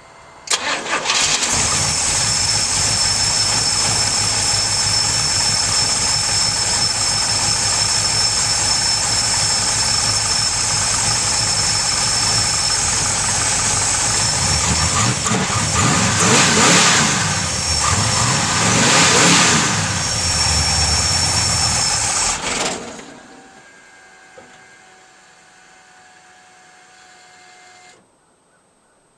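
Pontiac 455 V8 on E85 with FiTech EFI fuel injection starting cold, catching almost at once and idling with a steady high whine over it. It is revved twice a few seconds apart, then stops after about twenty seconds of running.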